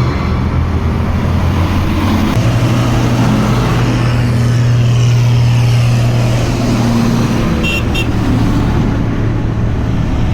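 Tractor engine running on the road, a steady low drone whose pitch steps up a couple of seconds in and falls back near the end. Two short high beeps sound just before the pitch drops.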